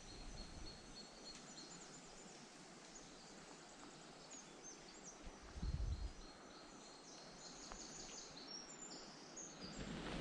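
Faint birdsong: scattered short, high chirps and whistles, busier in the second half, over a quiet outdoor hiss. A brief low rumble about six seconds in.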